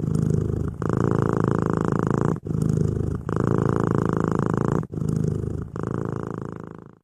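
Domestic cat purring, a steady rumble that breaks off briefly five times as the cat changes between breathing in and out.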